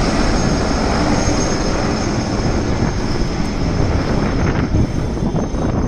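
Military helicopter running: steady engine and rotor noise with a low rumble and a steady high whine.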